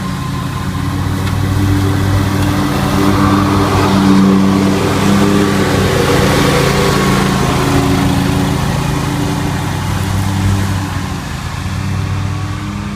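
Lawn mower engine running steadily under load, growing louder through the middle and easing off near the end.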